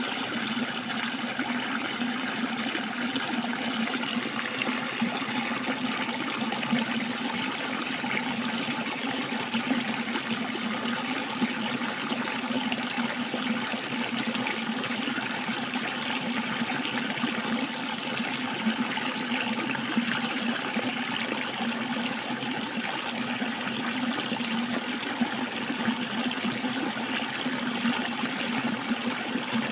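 Running water, steady and unbroken.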